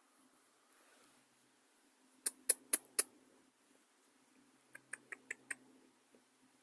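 Australian magpie pecking at its food: four sharp beak taps in quick succession about two seconds in, then a quieter run of five or six taps a couple of seconds later.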